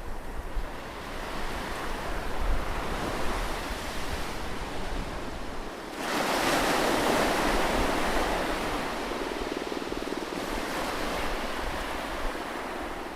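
Ocean waves washing onto a beach in a continuous surf, with one wave breaking more loudly about halfway through and then easing back.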